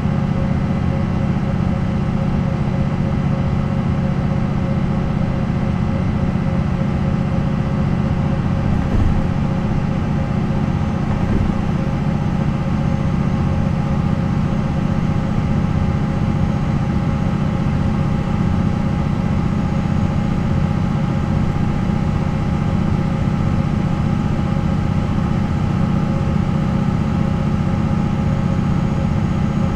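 MAN NL 263 city bus's D28 diesel engine running steadily, its pitch holding even with no revving or gear changes.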